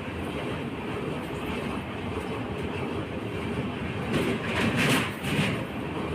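Passenger train running on the track: a steady rumble and rattle of the moving carriage, with three louder surges between about four and five and a half seconds in.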